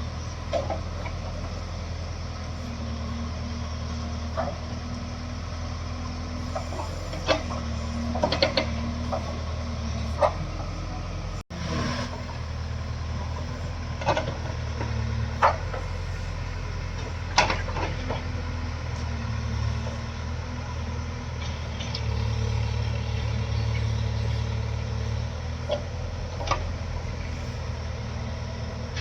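Heavy diesel engine running steadily at low revs, with scattered sharp knocks over it.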